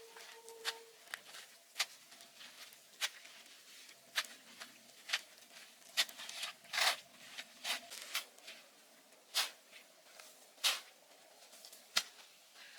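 Irregular sharp clicks and short crackles, about one or two a second, over a faint hiss.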